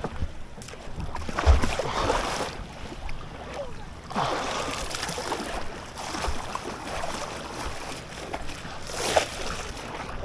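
Water splashing and sloshing around a small boat in shallow water, in uneven swells, with a dull thump about a second and a half in.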